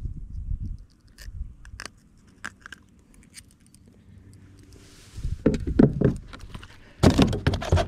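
Clicks, small metallic rattles and low knocks of fishing gear being handled aboard a kayak, growing into a louder run of knocks and rustling over the last second or so.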